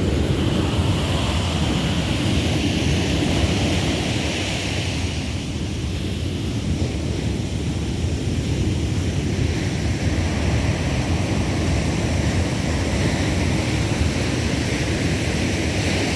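Ocean surf washing steadily onto the beach, with wind noise on the microphone.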